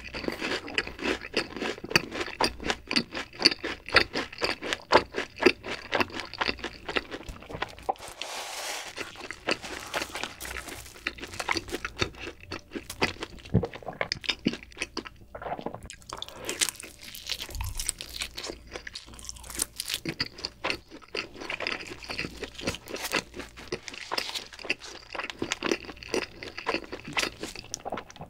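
Close-miked chewing of a fried cheese ball, with rapid crisp crunching for the first several seconds. After a sparser stretch midway, crunchy chewing of pizza crust resumes.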